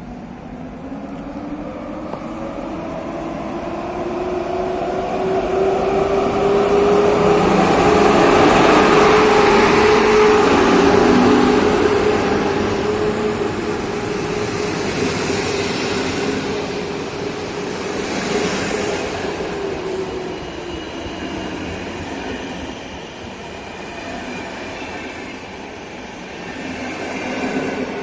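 A train passing close by on the rails, swelling to its loudest about a third of the way through and then slowly fading, with a steady whining tone over the rumble of the wheels.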